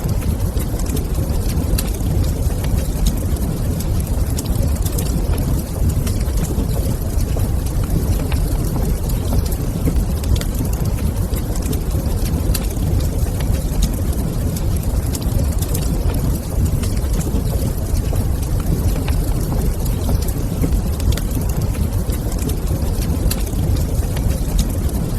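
Fireplace fire crackling with scattered sharp pops over a steady low rumble.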